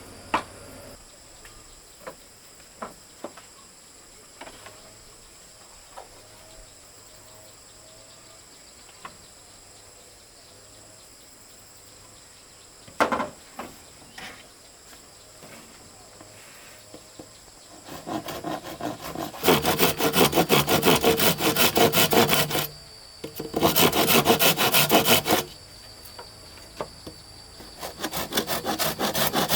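Scattered light knocks and taps, then a handsaw cutting with quick back-and-forth strokes in three bouts, starting about two-thirds of the way in and pausing twice. Insects drone steadily underneath.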